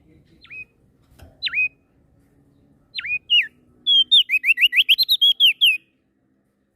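Prenjak daun songbird singing: three separate sharp whistled notes, each swooping steeply down and back up, then a fast, loud run of about a dozen whistled notes at roughly seven a second that stops about six seconds in.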